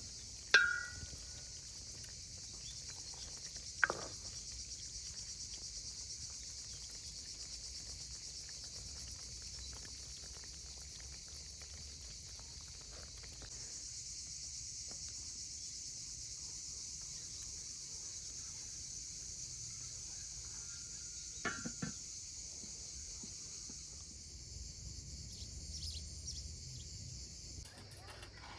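Outdoor insect chorus, a steady high-pitched chirring trill. A few sharp clicks or knocks break through: the loudest about half a second in, another near four seconds, and a pair about three quarters of the way through.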